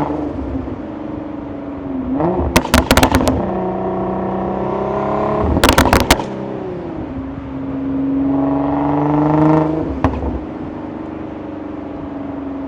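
Twin-turbo Infiniti G35 VQ35DE V6 running under load, its pitch climbing and dropping as the driver accelerates and lifts off. Two rapid bursts of exhaust pops and crackles on the overrun, about three and six seconds in, come from its burble tune.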